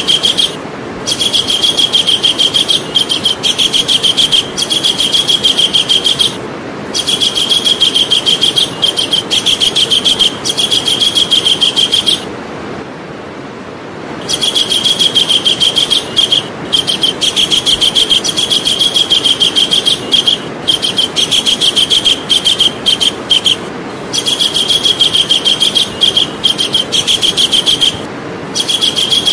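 Javan kingfisher calling: long runs of fast, high, repeated notes, broken every few seconds by short pauses, over steady background noise.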